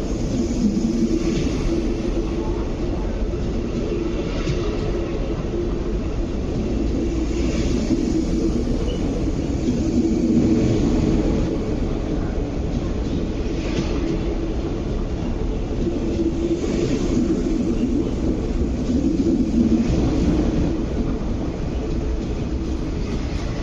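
MTR East Rail Line MLR electric train running past the platform: a steady rumble with a hum, and a faint clack about every three seconds.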